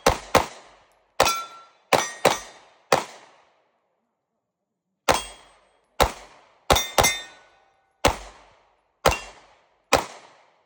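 Pistol shots fired from a ported Atlas Hyperion 2011: a string of six quick shots, a pause of about two seconds, then seven more at a slower, steady pace. Some shots carry a short metallic ring.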